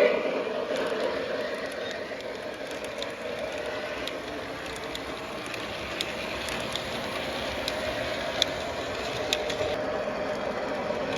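O gauge model train running along the track: a steady motor and wheel hum with scattered sharp clicks of the wheels over rail joints, the loudest about eight and a half seconds in.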